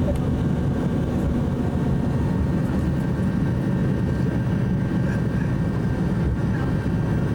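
Steady, even drone of a propeller airliner's radial piston engines.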